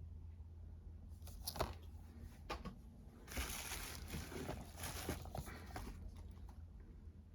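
Disc packaging being handled: a few sharp clicks, then about three seconds of rustling and crinkling over a low steady hum.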